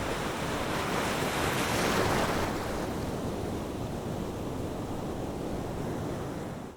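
Ocean surf washing in: a steady rush of noise that swells about two seconds in, eases off, and fades out at the end.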